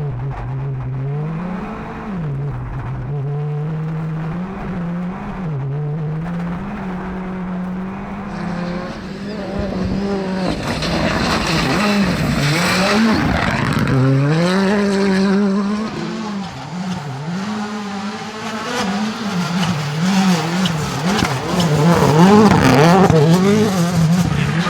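Rally car engine revving hard, its pitch climbing and dropping again and again through gear changes and lifts. From about a third of the way in, a loud rough tyre and skidding noise joins it and grows louder.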